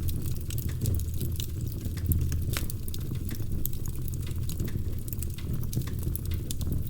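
Wood fire crackling: a steady low rumble of burning with frequent small sharp pops and snaps scattered through it.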